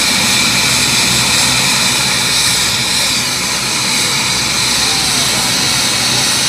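Helicopter running loud and steady, its turbine and rotor noise unbroken.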